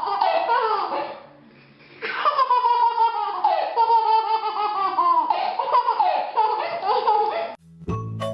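A baby laughing in high-pitched bouts with falling pitch, pausing briefly about a second in, then laughing on until it cuts off near the end, where music with plucked or mallet notes begins.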